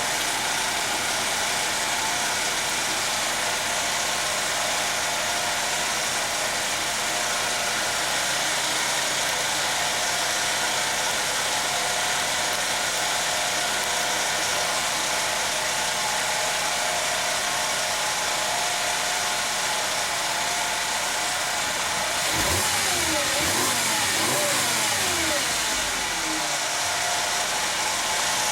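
2007 VW Jetta's 2.5-litre five-cylinder engine idling steadily, then revved briefly about 22 seconds in, the pitch rising and falling back over a few seconds.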